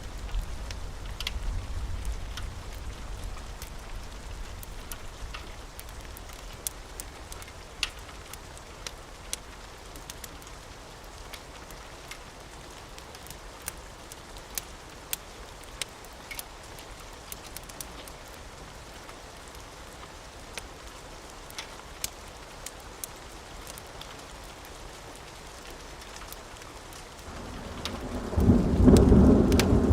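Steady rain falling, with scattered sharp pops throughout. A low thunder rumble fades away over the first few seconds, and a loud roll of thunder builds up near the end.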